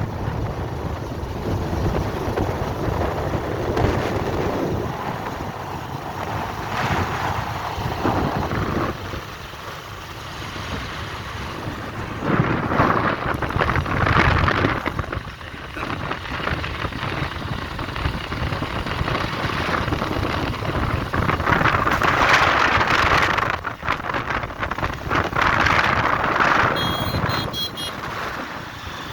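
Floodwater rushing, with wind on the microphone; the noise swells and eases, loudest in two long surges in the middle and later part.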